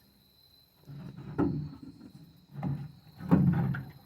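Three low bursts of grunting and straining as a heavy, water-filled steel truck door is hauled out of an electrolysis tank, the loudest near the end.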